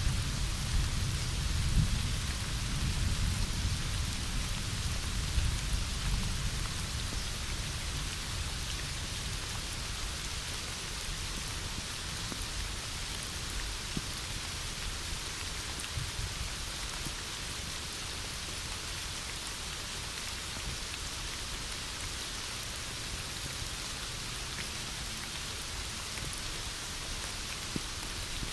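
Heavy rain falling steadily. A low rumble of thunder at the start dies away over the first several seconds.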